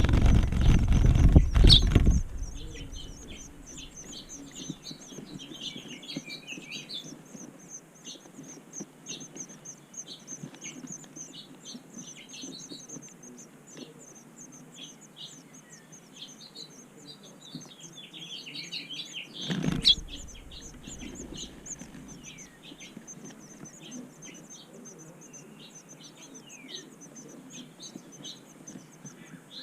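Small birds chirping in short, repeated calls over a continuous high, rapid ticking trill. Two loud surges of noise close to the microphone, one at the start and one about two-thirds of the way through, cover the chirps briefly.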